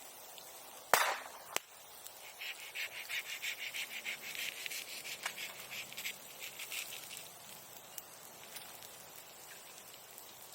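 Bonfire burning old wooden sericulture tools, with a sharp loud pop about a second in and a smaller one just after. For a few seconds after that there is a dense run of fast, high crackling.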